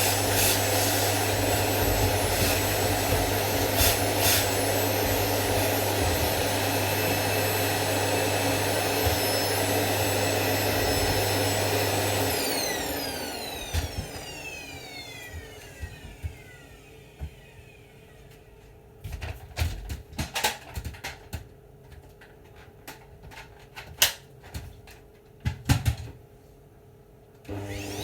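Vacuum cleaner running steadily, then switched off about twelve seconds in, its motor whining down in pitch as it spins down. A scatter of knocks and clicks follows, and near the end it is switched on again, the motor whine rising as it spins up.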